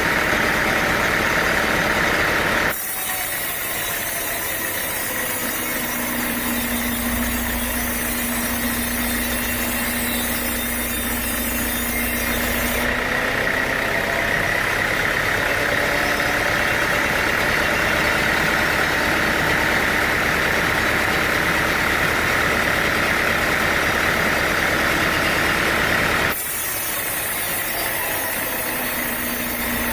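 Sawmill machinery running steadily, an engine-like drone with a low hum, its sound shifting abruptly about three, thirteen and twenty-six seconds in.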